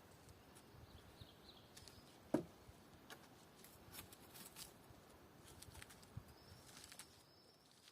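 Near silence: faint outdoor ambience with a few high bird chirps, scattered small clicks and one soft knock about two and a half seconds in.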